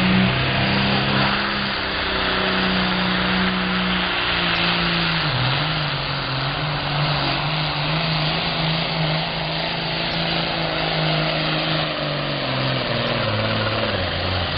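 John Deere 4010 tractor's engine running hard at steady high revs while pulling the sled. The pitch dips briefly about five seconds in and sags near the end as the engine is loaded down.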